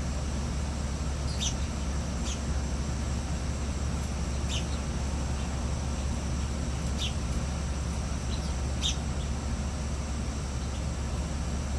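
Small birds giving a handful of short, high chirps a second or more apart, over a steady low rumble.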